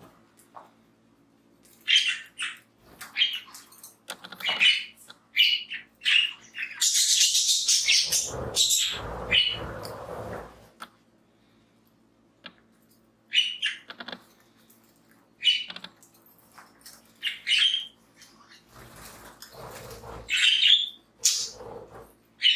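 Pet budgerigars giving short, sharp chirps in scattered ones and twos, with a few seconds of rustling noise in the first half.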